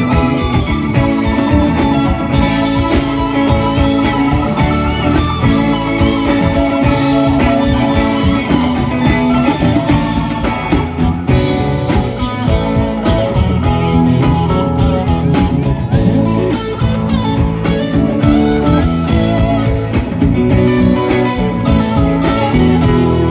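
Live rock band playing an instrumental jam, electric guitar lead over bass and drum kit.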